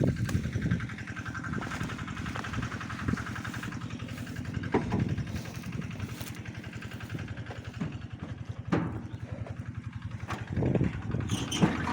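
Small engine running steadily, with a few short knocks.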